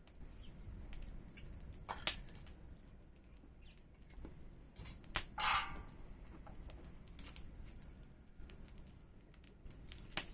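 Wood campfire crackling, with scattered small pops, a sharper pop about two seconds in and another near the end. A brief hissing flare comes a little past five seconds.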